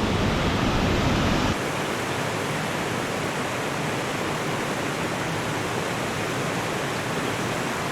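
Waterfall rushing, a steady even noise; about a second and a half in the low rumble underneath drops away.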